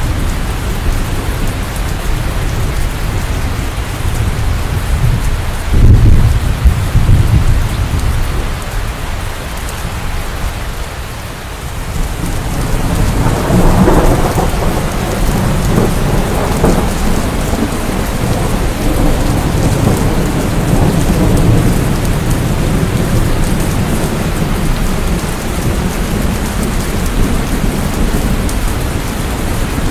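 Steady heavy rain, with thunder rumbling low about six seconds in and rolling louder from about thirteen seconds.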